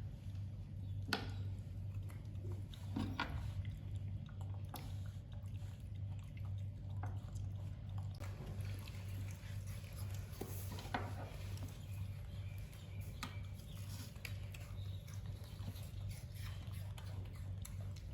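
Pet monkey chewing, with scattered small clicks and smacks over a steady low hum.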